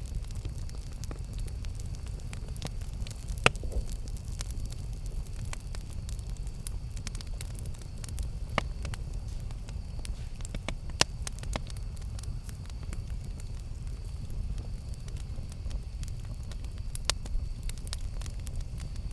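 Campfire burning with a steady low rumble of flame and scattered sharp crackles and pops of wood, a few louder pops standing out.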